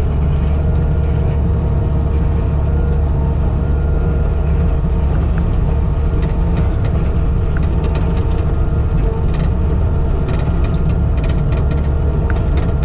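Skid steer engine running steadily under load, heard from the cab, as it pulls a grader attachment through a gravel driveway. Scattered clicks and rattles of rock and the grader's metalwork sound over the engine hum.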